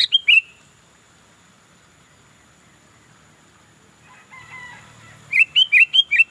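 Sooty-headed bulbul (kutilang) calling in sharp, clear notes. It gives a quick run of three at the start, a softer warble about four seconds in, then a fast burst of about six loud notes near the end.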